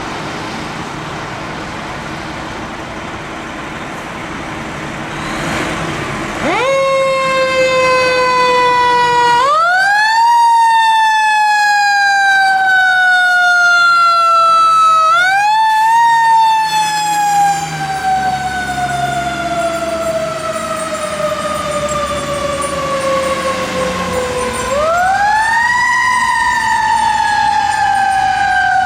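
Fire truck on an emergency response: engine and road noise, then about six seconds in its siren starts. The siren sweeps up quickly and then falls slowly in pitch, and is pushed back up three times.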